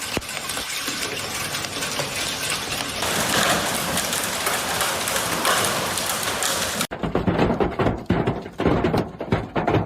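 Heavy storm rain beating down in a steady hiss that grows louder about three seconds in. After an abrupt cut a few seconds later comes a different stretch of scattered knocks and splashes.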